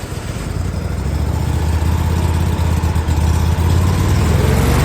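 Riding lawnmower engine running at idle, getting louder over the first couple of seconds and then holding steady. It has just been started on choke after hard cranking and is not running well.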